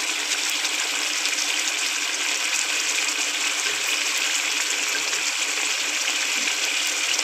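Thick egg masala gravy sizzling steadily in a pan on a gas stove, as it finishes cooking down.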